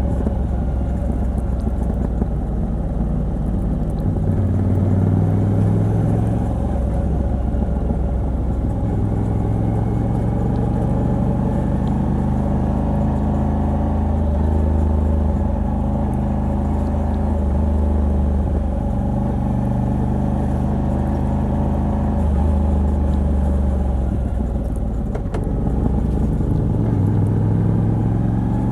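Moto Guzzi V85TT's air-cooled transverse V-twin running under way on the road, heard through its stock exhaust fitted with a Mistral decat pipe. The engine note holds steady for stretches and shifts in pitch a few times as the throttle and gears change.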